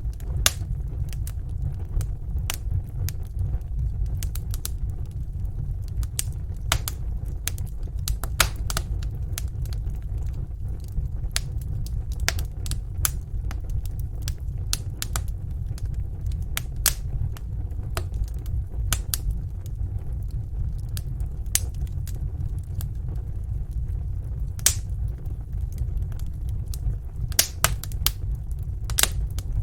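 Wood fire in a fireplace crackling, with irregular sharp pops, a few louder ones, over a steady low rumble.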